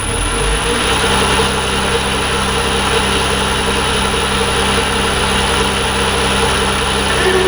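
Emco V10-P bench lathe spinning up and then running steadily, a steady hum with a thin high whine over it.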